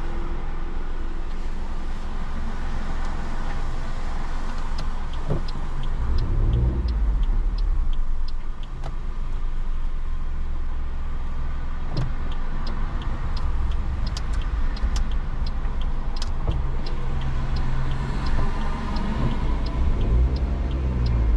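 Inside a car on the move in heavy rain: a steady low engine and road rumble that swells twice as the car pulls away. Through it runs a scattering of light ticks.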